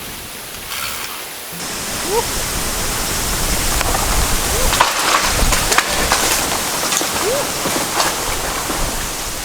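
A strong gust of wind rushing through a bamboo grove, the leaves thrashing and the noise building louder over the first few seconds, with scattered clicks and a few short rising squeaks from the swaying bamboo.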